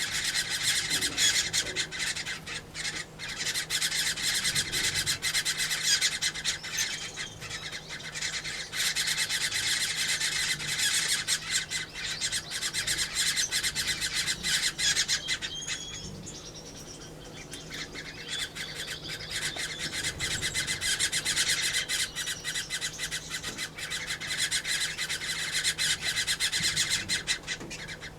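Dense, continuous chattering and calling of many small aviary birds (finches, waxbills and turquoise parrots), easing off for a few seconds past the middle. A faint steady low hum runs underneath.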